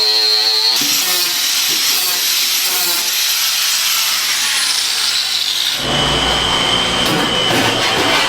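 Power tools running in a metalworking shop, the sound changing abruptly about a second in and again near six seconds, the last part with a steady high whine over dense noise.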